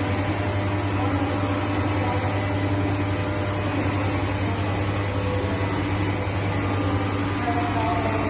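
Automatic mawa kettle running with a steady, unbroken machine hum: a low drone with a steady higher tone above it.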